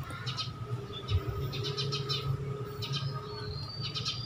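Small birds chirping in short clusters of quick, high notes, several times, over a steady low hum.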